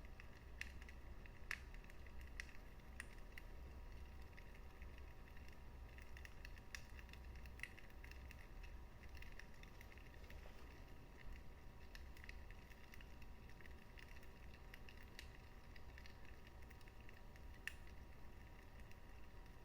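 Wood fire burning in a fireplace: faint crackling, with irregular sharp pops over a low rumble.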